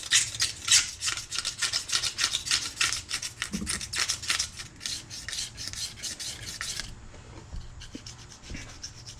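Razor blade scraping old gasket material off a Yamaha Warrior 350 cylinder head's mating surface in quick back-and-forth strokes, about three a second, turning fainter and lighter after about seven seconds.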